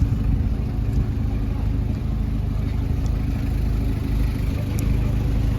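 A vehicle engine idling steadily, its low note unchanging.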